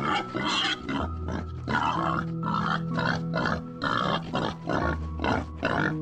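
Young boars grunting in quick succession, short rough calls two or three a second, over background music with sustained notes.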